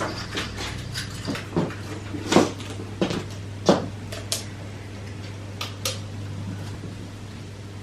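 Irregular light knocks and clicks of household objects being handled, like cupboard doors and dishes, over a steady low hum. The knocks thin out after about four seconds.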